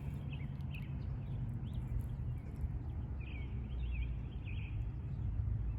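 Small birds chirping in quick, repeated high notes over a steady low rumble from walking and wind on the microphone.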